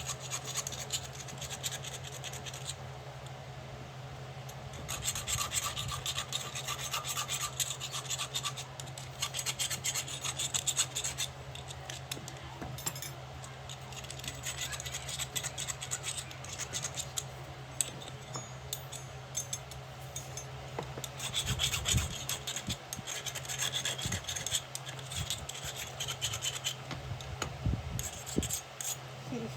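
Iron being worked by hand with a file, in stretches of rasping strokes, over a steady low hum.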